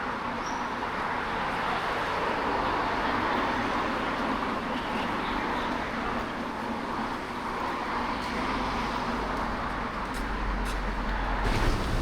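Steady city traffic noise, with a deeper rumble of a nearby vehicle growing over the last few seconds.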